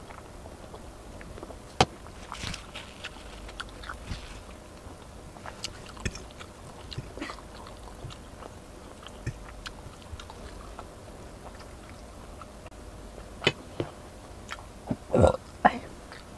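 Close-miked eating: a person chewing and slurping spaghetti, with scattered light clicks of a metal fork on the plate. A louder short burst of sound comes near the end.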